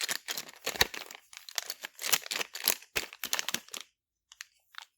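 Plastic Lego minifigure blind bag crinkling and crackling as it is handled and opened by hand, a dense run of sharp crackles that stops about four seconds in.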